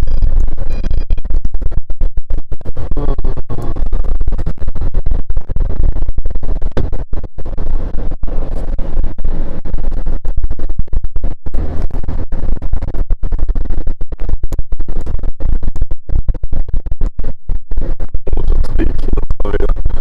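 Strong wind buffeting the microphone: a loud, low, rumbling roar that keeps cutting in and out irregularly.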